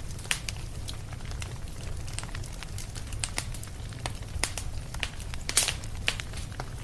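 Fireplace fire crackling, with sharp irregular pops over a steady low rumble; the loudest pop comes a little past halfway.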